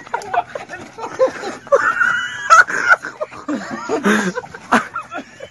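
Excited voices shouting and exclaiming, broken by a few sharp knocks, the loudest about two and a half seconds in.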